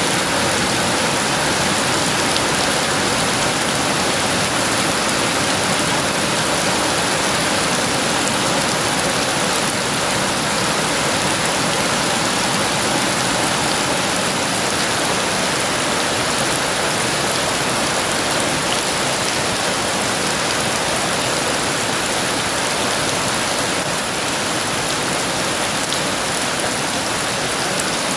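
Heavy rain falling steadily: a dense, even hiss of downpour with no thunderclap.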